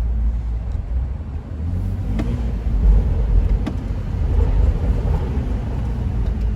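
A car running at low speed, a steady low engine and road rumble, with a couple of faint clicks about two and three and a half seconds in.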